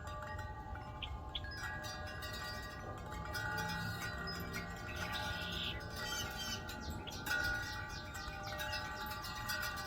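Wind chimes ringing in a breeze, several tones struck and overlapping as they sustain and fade. Birds chirp briefly in the background.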